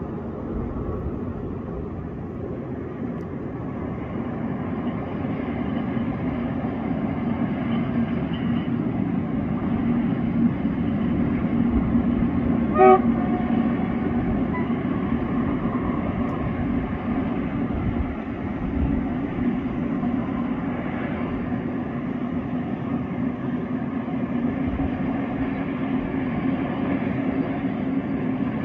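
Passenger train running past with a steady rumble of wheels and cars on the track, and one short horn toot about halfway through.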